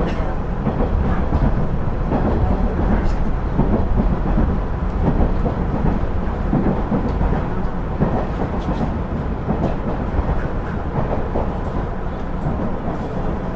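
Inside a KiHa 110-series (KiHa 112) diesel railcar under way: a steady low rumble of the diesel engine and the wheels running on the rails, with a few faint clicks.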